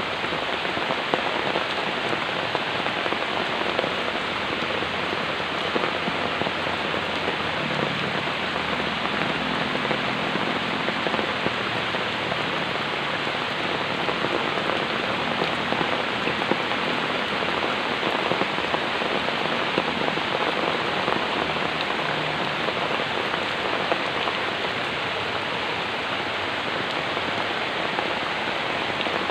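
Steady rain falling on a surface: a dense, even hiss dotted with the ticks of individual drops.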